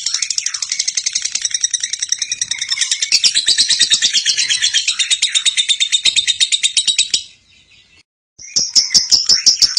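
Lovebird's long, rapid chattering (ngekek): a fast, even run of shrill chirps that breaks off about seven seconds in, then starts again after a second of near silence.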